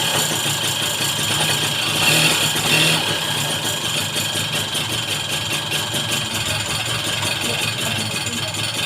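Small motorcycle engine running steadily at idle, with a fast, even pulsing.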